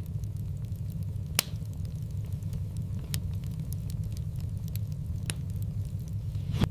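Wood fire in a fireplace crackling over a steady low rumble, with scattered small ticks and two sharp pops, one about a second and a half in and one near the end.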